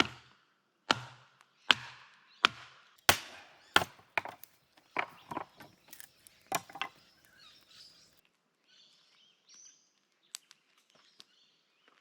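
Firewood being chopped: about a dozen sharp wooden strikes, evenly spaced under a second apart at first and then quicker and more irregular, stopping about seven seconds in.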